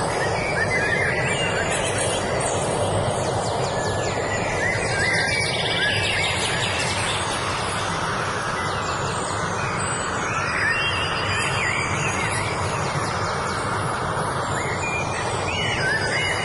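Birds singing in short, bending phrases every few seconds over a steady rushing background noise.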